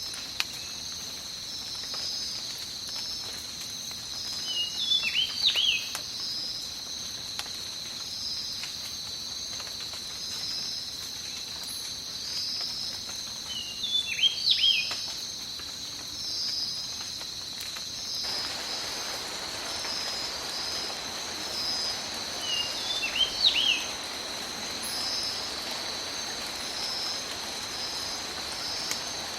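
Tropical forest ambience: insects trilling in a steady, high, pulsing chorus, with a bird giving a short run of sliding calls three times, about nine seconds apart. A soft, even rain hiss comes in a little past halfway.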